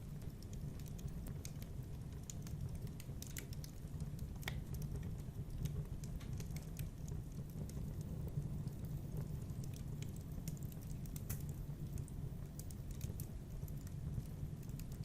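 Wood fire in a fireplace crackling, with irregular sharp pops and snaps over a low, steady rumble of the burning fire.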